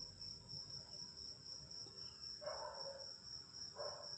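A cricket trilling as one steady, unbroken high tone, faint, with two soft short sounds near the end.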